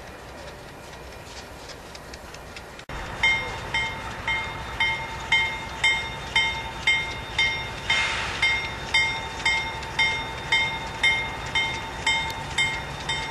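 A train rolling past with a steady rumble, then, after a sudden cut about three seconds in, a railroad grade-crossing bell striking evenly about twice a second, each stroke ringing on.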